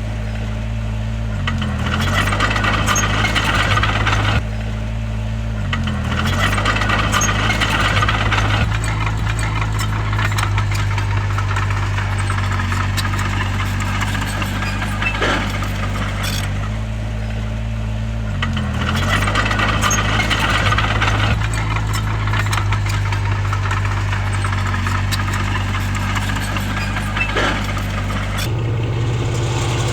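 Bulldozer's heavy diesel engine running steadily under load, its pitch briefly dipping three times as it lugs. Bouts of rattling and clanking from the tracks and pushed stones come and go, and the engine note changes near the end.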